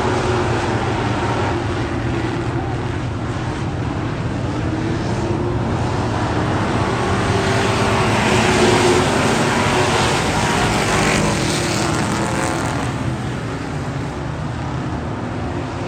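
Race car engine running, growing louder about eight seconds in and then easing off.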